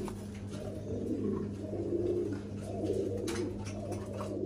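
Domestic pigeons, Warsaw Butterfly tumblers, cooing in low repeated warbles, over a steady low hum and a few faint clicks.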